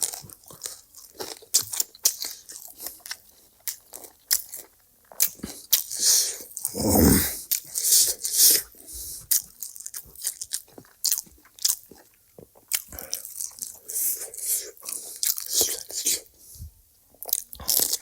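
Close-miked mouth sounds of eating: irregular crunching bites and chewing of crisp food. About seven seconds in, a louder low sound lasts about a second.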